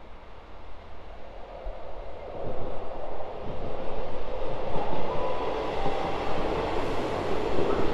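A diesel multiple unit, South Western Railway's coupled Class 158 and 159 sets, running into the station, its rumble growing louder from about two and a half seconds in. A couple of short, faint squeals come in the middle.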